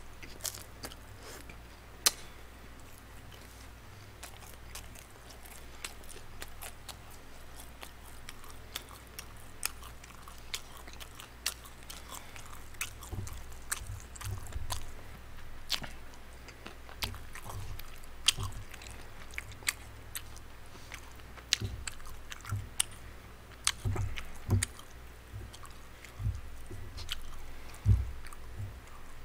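Close-miked chewing of chewy tteokbokki rice cakes, with irregular wet smacks and sharp clicks throughout and occasional low thumps.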